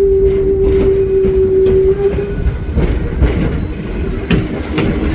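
Steam train rolling along the track, a steady rumble with clicks from the rails. A single long steady tone sounds until about two seconds in, then stops.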